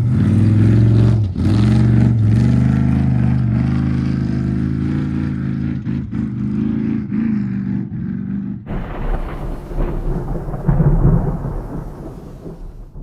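Off-road race vehicle's engine running hard, its pitch dropping and climbing again several times like gear changes. About two-thirds of the way in it cuts off abruptly and gives way to a low rumble with hiss that fades near the end.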